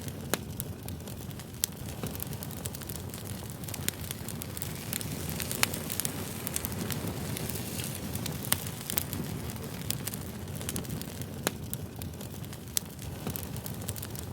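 Campfire burning, a steady low rumble with sharp crackles and pops of burning wood at irregular intervals.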